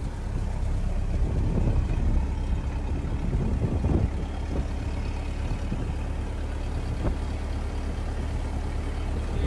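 A 1915 Ford Model T's four-cylinder engine runs steadily as the car drives along, heard from aboard as a low rumble that swells a little twice in the first half, with one sharp click about seven seconds in.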